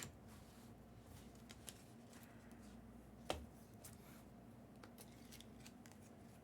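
Quiet handling of trading cards: faint scattered clicks and ticks of cards being flipped and set down, with one sharper click about three seconds in, over a low steady room hum.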